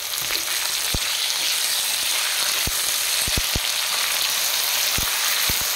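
Cubed potato and bitter gourd sizzling in hot oil in a kadhai while being stirred with a silicone spatula. A steady sizzle runs under it, with a few short knocks of the spatula against the pan.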